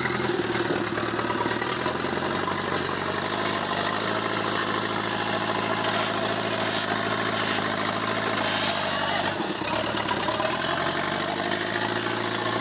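Backhoe loader's diesel engine running steadily, its tone shifting briefly about three-quarters of the way in.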